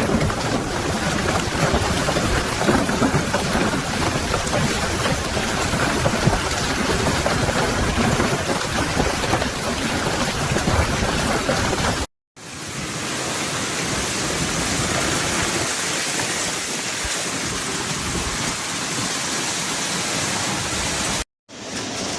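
Heavy rain pouring down in a dense, steady wash of noise. It breaks off twice, about twelve seconds in and again near the end, where the footage is cut.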